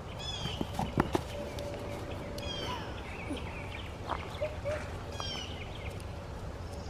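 A songbird singing a short phrase of quick descending high notes, three times about every two and a half seconds, over a steady low outdoor rumble. A single sharp click about a second in.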